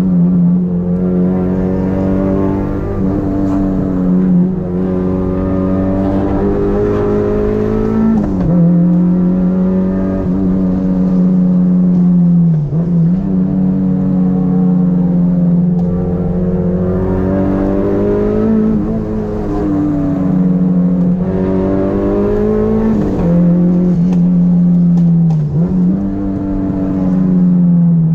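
Honda Integra DC2's four-cylinder engine heard from inside the cabin, held at high revs with a loud, steady note. Every four or five seconds the pitch dips briefly and climbs back as the driver eases off and gets back on the throttle.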